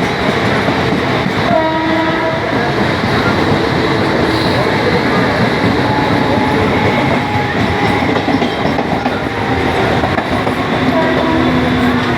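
Mumbai suburban local train running, a loud steady rumble with wheel clatter on the rails, and a short horn blast about a second and a half in.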